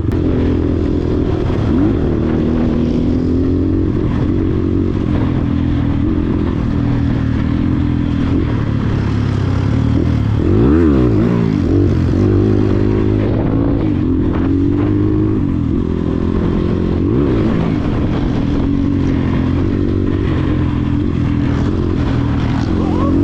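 Dirt bike engine running under way, its revs rising and falling with the throttle. About ten seconds in, a quick rev up and back down.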